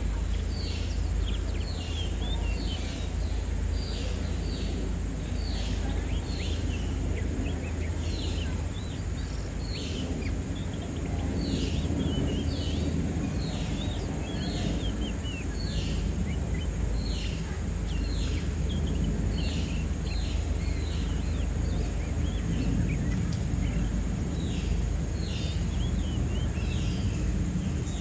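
Small birds chirping over and over, short quick downward-sweeping notes about one or two a second, over a steady low rumble of background noise.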